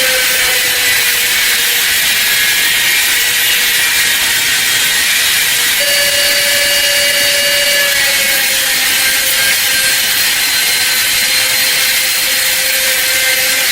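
A small electric power tool running steadily with a whine and a grinding hiss as it abrades metal. Its pitch rises about six seconds in and sinks back a couple of seconds later, as the load on it changes.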